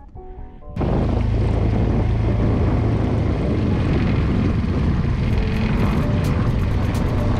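Music stops abruptly about a second in and gives way to a boat's outboard motor running steadily, a constant low hum under heavy noise.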